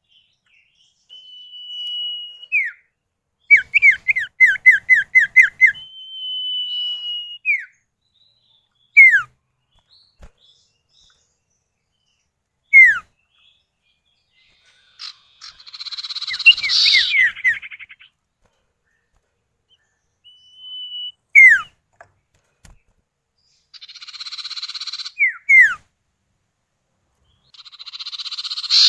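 Common iora (sirtu, cipoh) male and female calling back and forth: quick runs of sharp falling notes, long level whistles and harsh buzzing chatters, each call set apart by a short silence.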